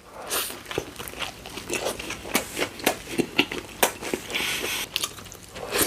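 Close-miked eating of a Subway Italian BMT sandwich: biting and chewing, with many sharp crunchy clicks and wet mouth sounds.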